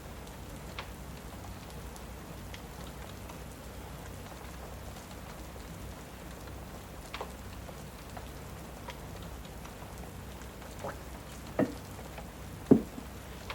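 Steady rain with a wood fire crackling, a few sharp pops scattered through it, the loudest two close together near the end.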